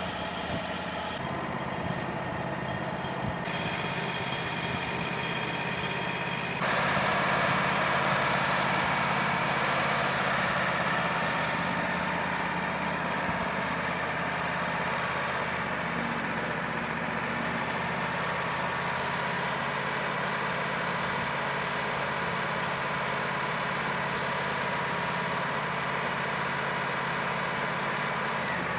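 Wood-Mizer LT35 portable band sawmill running steadily with its engine under load, the band blade cutting through a log. The sound gets louder and brighter about six or seven seconds in.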